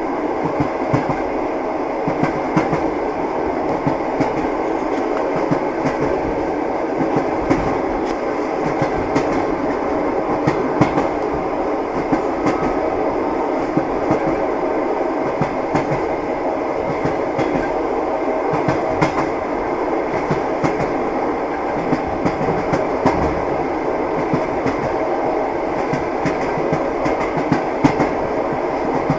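Train wheels clacking over rail joints under a steady rumble of the moving carriage, heard from inside the train.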